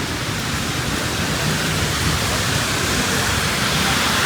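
Steady rain falling, an even hiss that grows a little louder near the end.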